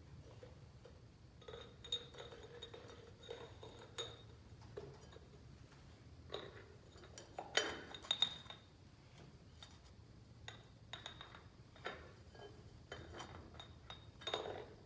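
Metal hand tools clinking and knocking against metal in irregular, scattered taps, some with a short ring, while working on a tractor's drain plugs and fittings.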